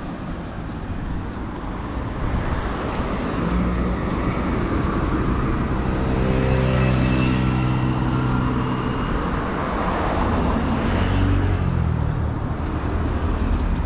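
Motor vehicle engine under way over a steady rumble of road and wind noise. The engine note rises from about four seconds in, then falls away again a few seconds later.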